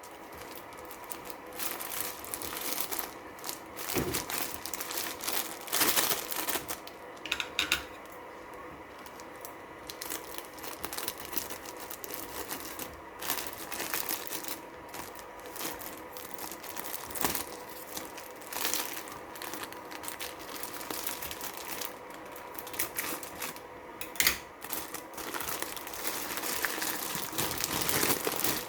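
Plastic packaging crinkling and rustling as it is handled, among scattered clicks and light knocks.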